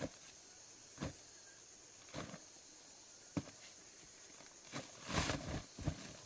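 Scattered single knocks roughly a second apart, then a short rustling scrape about five seconds in, over a steady faint high-pitched tone.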